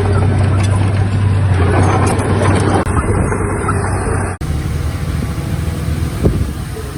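Heavy diesel engine of earthmoving machinery running steadily with a strong low hum; about four and a half seconds in the sound cuts abruptly to another engine sound.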